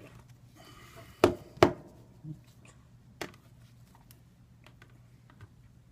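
Hard objects knocked against a work surface: two sharp knocks close together, then two fainter taps.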